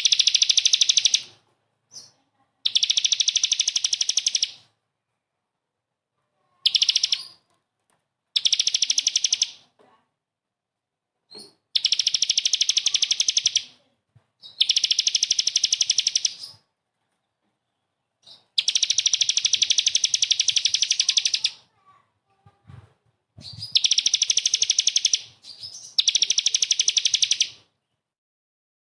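A songbird delivering harsh, rapid-fire trills of the kind called 'tembakan kasar', used as a master song to train caged birds. It gives about nine high-pitched bursts of very fast rattling notes, each one to three seconds long, with short pauses between.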